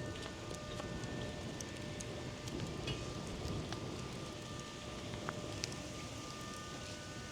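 Wood fire crackling in an outdoor fire pit: scattered sharp pops and snaps over a low steady rush of burning, with faint steady tones in the background.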